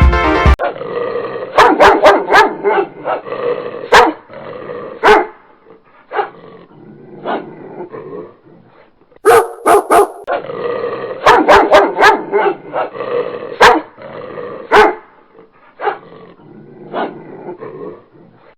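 Canine barking and growling: sharp barks over a rough snarl, in two similar bouts with quieter growls between them.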